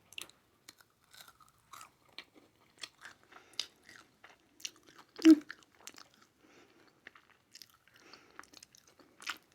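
Close-miked chewing and crunching of a hazelnut chocolate with crispy bits: a steady run of small crackles, with one louder thump about five seconds in.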